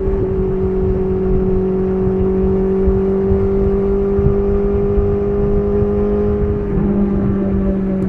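BMW S1000RR's inline-four engine running steadily under way through an SC Project CR-T titanium exhaust. The note creeps slowly higher, then changes briefly near the end.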